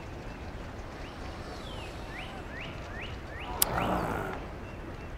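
A bird calls a run of about six short rising chirps over steady outdoor background noise. About three and a half seconds in there is a single sharp click, followed by a brief burst of noise, the loudest sound here.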